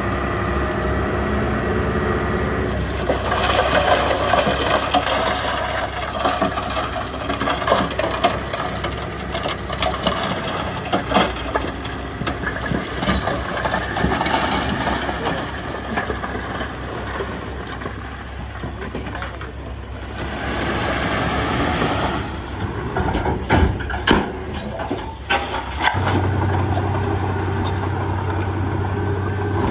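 Heavy diesel machinery working, with engine sound that rises and falls and scattered knocks and clanks. Near the end a steady low engine hum sets in.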